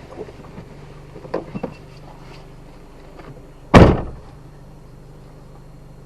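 A car door slams shut about four seconds in, after a few light clicks and knocks, with the engine idling steadily underneath.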